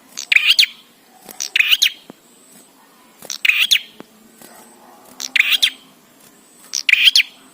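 Prinia (prenjak) calling: five short, sharp, high-pitched chirping bursts, each about half a second, repeated at an even pace of roughly one every second and a half to two seconds.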